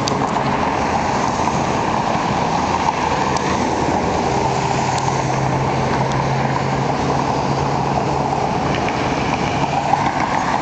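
Steady road traffic noise: passing vehicles and a low, even engine hum, with no car accelerating hard.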